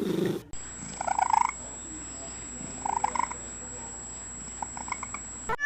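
A cat making two short calls about two seconds apart, with a low purr beneath them.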